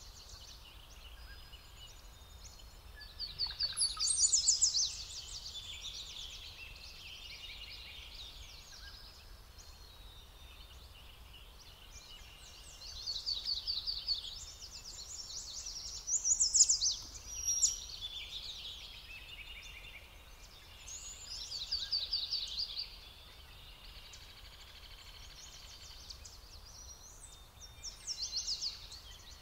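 Songbirds singing: about five loud, rapid, trilled song phrases, each a second or two long, with quieter chirping between them over a steady low background rumble.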